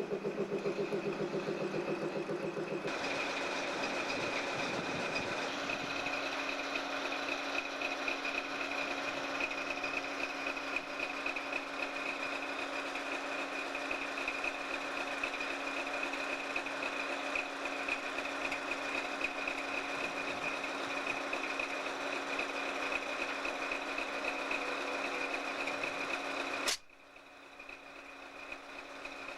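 Locomotive engine running steadily with a constant hum; the sound changes about three seconds in and cuts off abruptly near the end.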